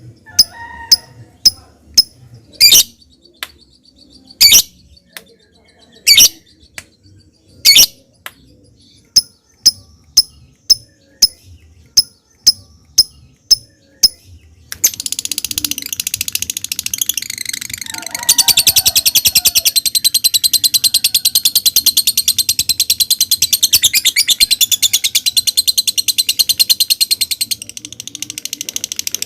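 Lovebird calling: first a series of separate sharp chips ('ngetik'), then from about halfway a long, rapid rattling chatter ('ngekek') that grows louder a few seconds later and breaks off briefly near the end.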